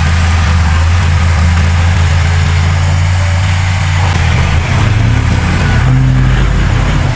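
Heavy diesel engine of earthmoving machinery running steadily at a low pitch. Its note shifts about four and a half seconds in.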